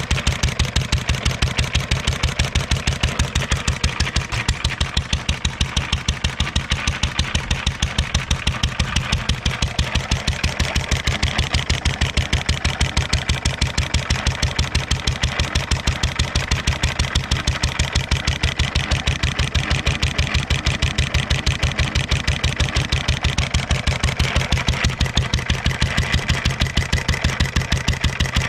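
1.5 hp International LA single-cylinder stationary engine running steadily with an even, regular exhaust beat, back in running order after years of neglect.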